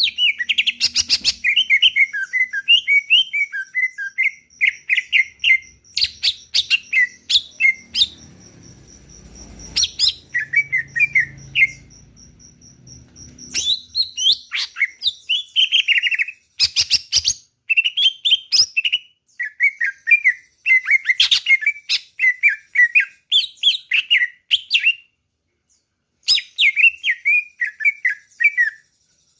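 Green leafbird (cucak ijo) in full song: rapid runs of varied, chirpy whistled phrases with sharp clicking notes, each run lasting a few seconds with short pauses between.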